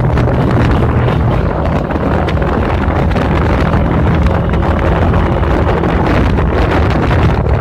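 Heavy wind buffeting on the microphone over a motorcycle engine running steadily while riding at speed.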